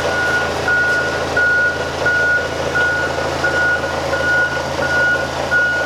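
A vehicle's reversing alarm beeps as one steady tone, about three beeps every two seconds, over a low, steady engine hum.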